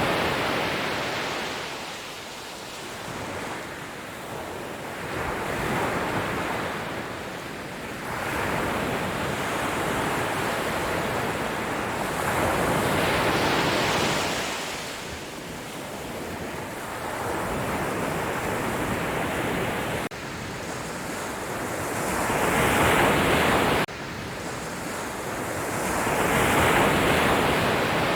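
Sea waves breaking and washing up the shore, the surf swelling and fading every few seconds, with a sudden drop in level twice near the end.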